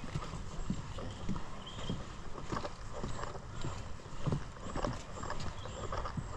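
Footsteps of a person walking at a steady pace on a trail, about one and a half steps a second.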